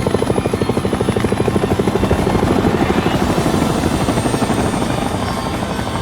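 Helicopter rotor chopping with a fast, even beat, easing slightly in the second half.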